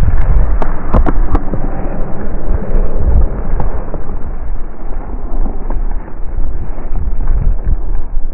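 Strong wind buffeting the microphone in a snowstorm: a loud, uneven low rumble with a few knocks near the start.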